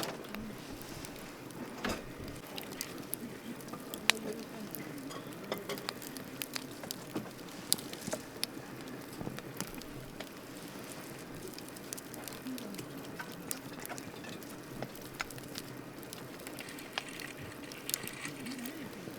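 Wood campfire burning, crackling with irregular sharp pops and snaps over a steady hiss.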